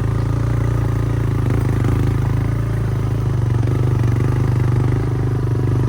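Motorcycle engine running steadily under load as the bike climbs a steep hill track.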